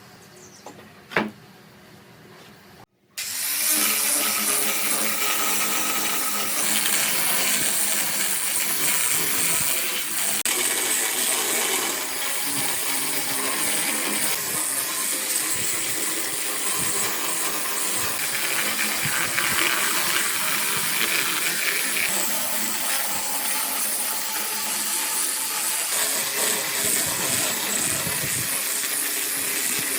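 A single sharp click about a second in, then from about three seconds a power tool running steadily with a loud, high hissing noise.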